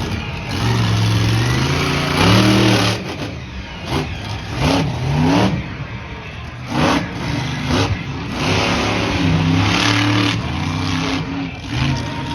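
Monster truck engine revving hard in repeated bursts, its pitch climbing and dropping several times over a loud rushing noise.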